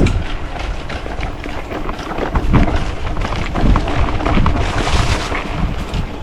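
Wind buffeting the microphone while riding a mountain bike, a steady low rumble, with frequent knocks and rattles from the bike going over a rough, rooty trail.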